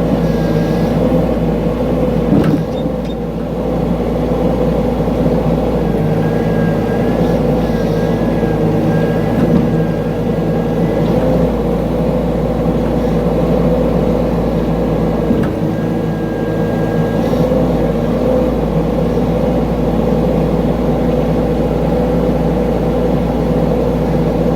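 Mini excavator engine running steadily under work, with a thin high whine that comes and goes several times and a couple of brief knocks.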